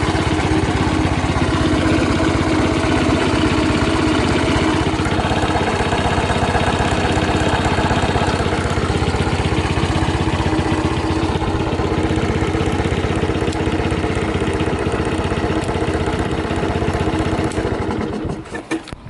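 Suzuki Gag LA41A's small single-cylinder four-stroke engine idling steadily, then shut off near the end. The seller judges it free of abnormal noises.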